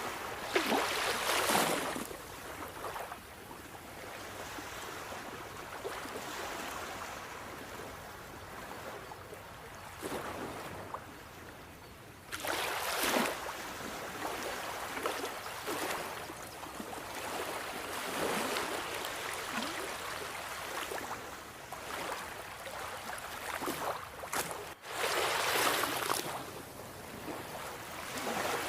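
Sea waves breaking on the shore three times, about twelve seconds apart, each swelling to a hiss and falling away into the washing of water between them.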